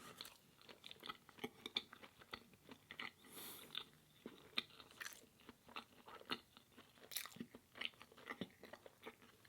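A person chewing food close to the microphone: soft, irregular wet clicks and small crunches.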